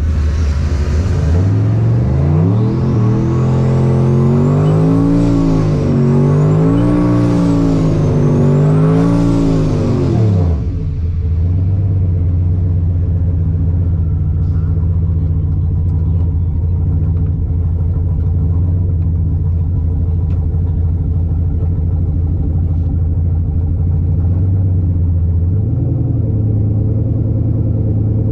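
Turbocharged full-size truck engine making a drag-strip pass. It revs up hard, rising and falling in pitch several times with a high whine following the engine, for about nine seconds. Then it drops off abruptly to a steady low rumble, with one short blip of the throttle near the end.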